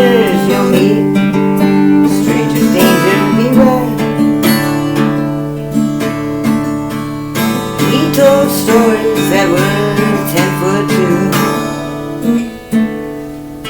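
Acoustic guitar strummed in a steady rhythm, chords ringing between the strokes, in an instrumental passage between sung lines. It gets quieter about twelve seconds in.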